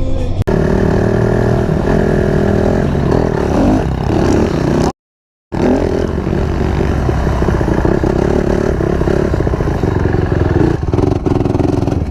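Dirt bike engine revving up and down under riding, with rattling and scraping along with it. The sound cuts out completely for about half a second near the middle.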